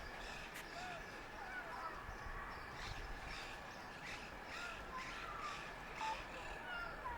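Birds chirping and calling: many short, high calls in quick succession mixed with small whistled notes, over a faint steady background.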